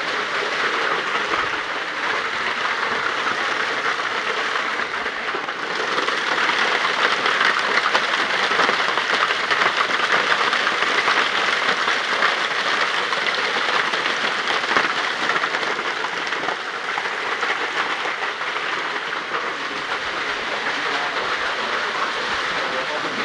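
Severe thunderstorm: heavy rain and wind making a steady rushing noise, heavier for a stretch several seconds in.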